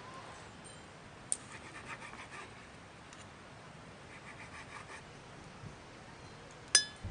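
Quiet outdoor ambience with a faint click, two short runs of faint rapid chirping, and one sharp ringing clink of a hard object near the end.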